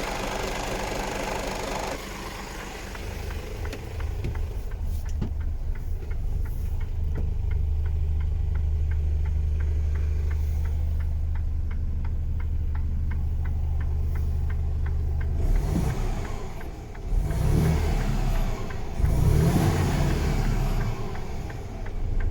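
Mercedes-Benz Actros 1843 truck's diesel engine idling steadily, then rising in three louder surges near the end as it is revved or pulls away.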